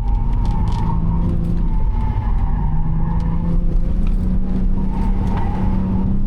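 Subaru Legacy Spec B's 3.0-litre EZ30 flat-six engine running hard on track, heard onboard; its pitch sags a little, then climbs and holds steady from about four seconds in.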